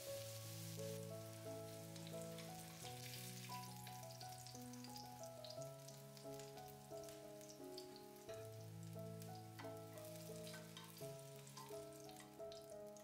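Eggplant frying in hot oil, a steady sizzle with fine crackling, under soft instrumental background music.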